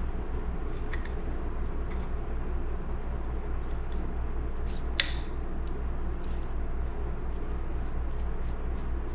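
Small metal clicks and ticks of hand tools on a small Tillotson chainsaw carburetor being taken apart, with one sharp click about five seconds in, over a steady low hum.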